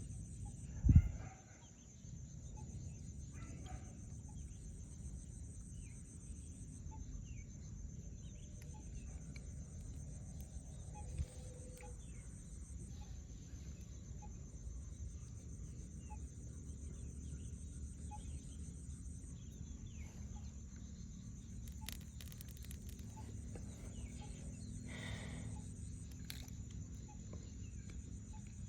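Domestic fowl calling now and then over a steady low rumble, with one sharp low thump about a second in.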